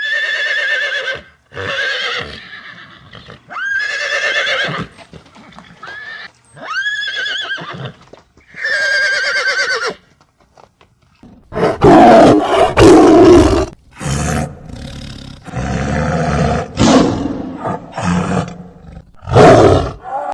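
A horse whinnying five times, each call a wavering high neigh of about a second. From about halfway on, a large animal gives a run of loud, rough roaring calls.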